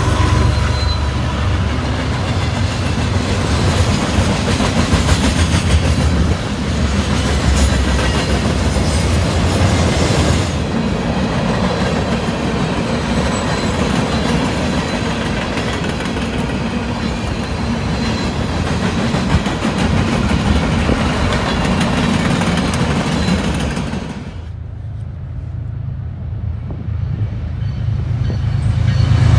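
Freight train cars rolling past close by: a steady rumble of wheels on the rails with clickety-clack. About 24 seconds in, the sound cuts to a quieter scene where another freight train's locomotives approach, growing louder toward the end.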